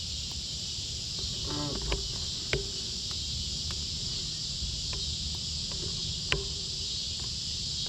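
Steady evening chorus of crickets and other insects, heard as a high, even buzz, with a few sharp clicks.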